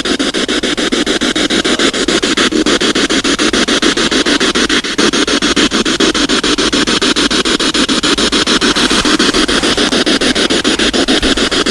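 Spirit box (ghost box radio) sweeping through stations: a steady hiss of static, chopped by rapid, even stepping from one frequency to the next.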